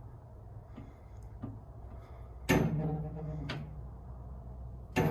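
Heavy clunks of metal being moved and set down: a loud ringing clank about halfway through, a lighter one a second later and another at the end, over a steady low hum.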